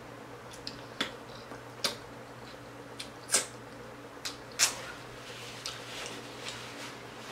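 A person chewing a big mouthful of soft chicken street taco close to the microphone: irregular wet mouth smacks and clicks, the loudest about three and a half and four and a half seconds in.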